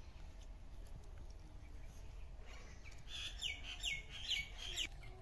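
A bird singing a quick run of six or seven short, high notes, starting about three seconds in, over a low steady outdoor background.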